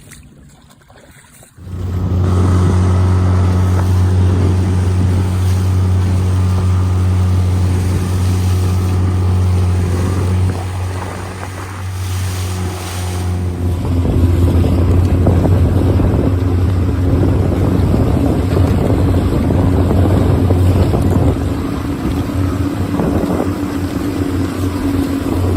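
Small boat's outboard motor running steadily under way, with water noise over it. It comes in sharply about two seconds in, and its tone shifts about halfway through.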